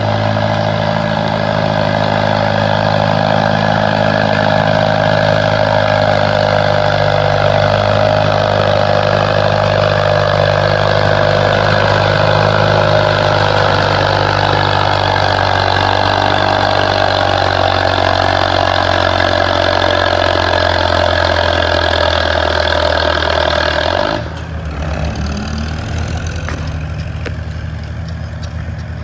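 Farmall M tractor engine running loud and steady at high revs, its pitch sagging slowly as it works under load. About 24 seconds in the sound drops abruptly to a quieter, lower engine note.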